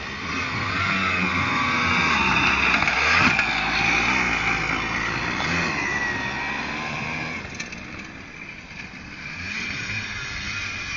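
Several dirt-bike engines revving up and down as the motorcycles ride past on a motocross track. The sound swells to its loudest about three seconds in, dies away around eight seconds, and builds again near the end as more bikes come.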